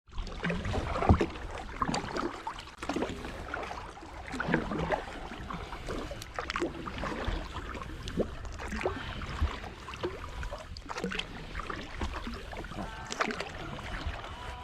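Kayak paddle strokes in lake water: irregular splashes and drips as the blades dip and pull, over a low steady rumble.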